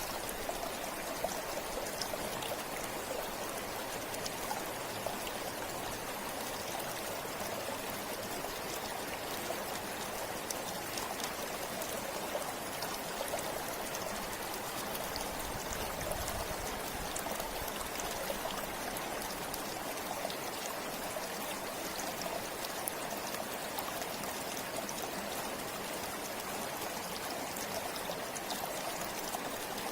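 Forest river flowing over stones: a steady rushing with fine splashing and trickling.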